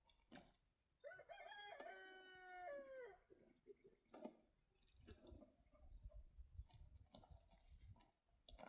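A rooster crows once, faintly: one drawn-out call that rises, holds, then falls off at the end. Soft low rumbling and scattered clicks follow.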